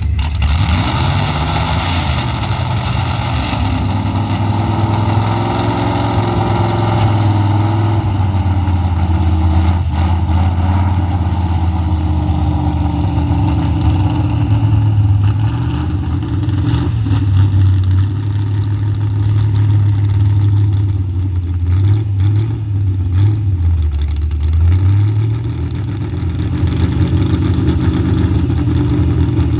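Pulling truck's engine running hard under load, its pitch wavering through the run and dipping briefly a little over 20 seconds in before climbing back up.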